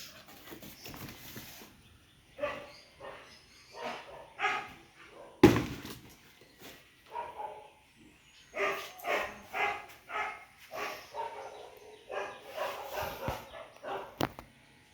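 A dog barking in short pitched calls, in several bursts, with one sharp loud knock about five and a half seconds in.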